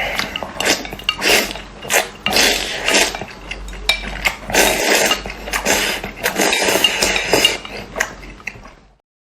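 Close-miked eating of Indomie instant noodles: a busy run of wet mouth noises and short clicks, with cutlery clinking against the bowl. It stops abruptly near the end.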